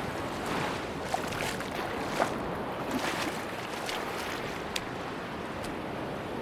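Sea waves washing on a beach: a steady rush of surf, with a few short sharp clicks and splashes on top.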